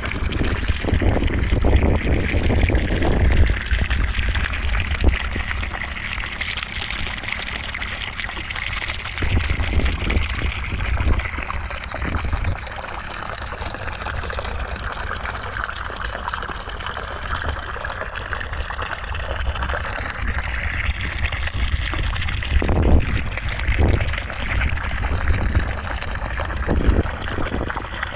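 Continuous rushing white noise, steady in level, with a deep rumble underneath and a few brief soft knocks.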